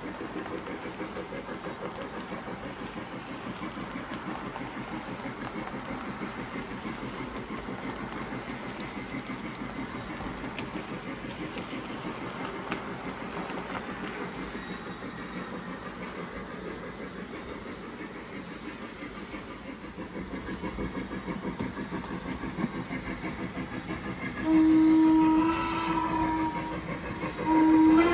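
O scale three-rail model train running steadily around the layout, a fine rhythmic clatter of wheels and the locomotive's sound system. Near the end the locomotive's whistle sounds two loud blasts, each about a second and a half long.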